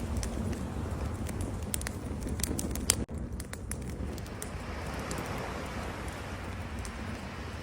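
Campfire crackling with sharp pops and snaps, densest in the first three seconds, over a steady low rumble of surf. The sound cuts out for an instant about three seconds in, and a broad wash swells up from about halfway on.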